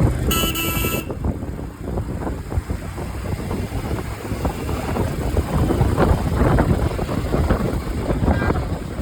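Motorcycle running along the road with the rough rumble of wind buffeting the microphone. A short shrill tone sounds about half a second in.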